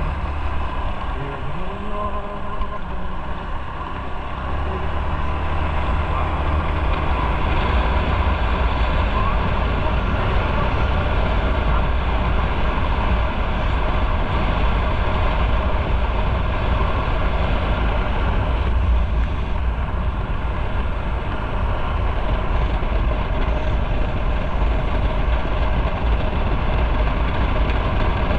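Motorcycle riding on the road: engine running under a steady noise of wind and road, getting louder about five seconds in and holding steady.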